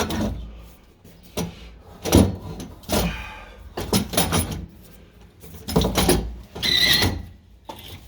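Catback exhaust pipe knocking and scraping against a car's underbody as it is wrestled out from under the car. The sound is a string of irregular metallic clunks and scrapes, with a brief ringing scrape about two thirds of the way through.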